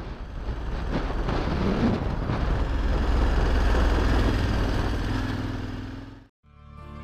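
KTM 1190 Adventure R's V-twin engine running steadily as the bike rides along, with wind noise rushing over it. The sound fades in, swells, and fades out about six seconds in, and music begins just before the end.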